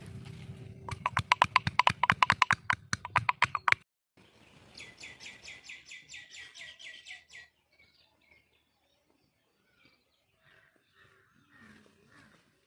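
Birds calling: a loud, rapid chattering series of notes for the first four seconds, then a higher, quieter rapid trill lasting about three seconds.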